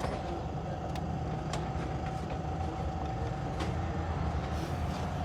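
A steady low mechanical hum with a thin steady whine above it, and a few light clicks scattered through it.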